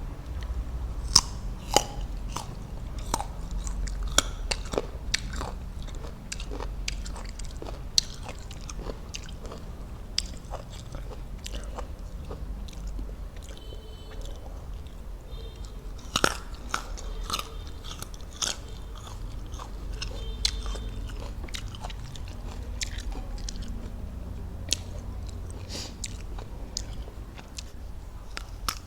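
Close-miked biting and chewing of crisp fruit: sharp crunches in clusters, thickest in the first several seconds and again about halfway through, with quieter wet chewing between.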